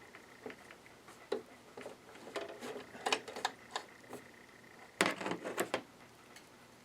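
Irregular clicks and knocks of small hard parts being handled on a Janome ME4014 sewing machine during reassembly, with a denser run of clicks about five seconds in.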